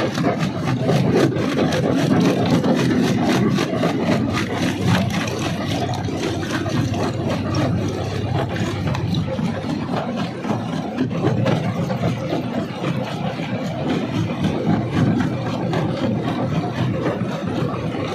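Rock crushing machinery running: a steady engine drone with a rapid stream of sharp knocks and clicks from rock in the crusher, densest in the first few seconds.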